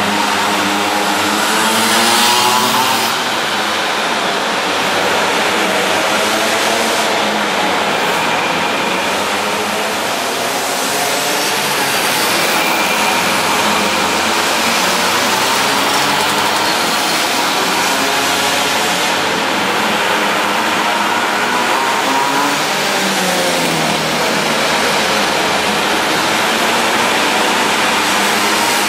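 Minibike engines running, their pitch repeatedly rising and falling as they rev up and back off; several engines are heard at once, their notes crossing.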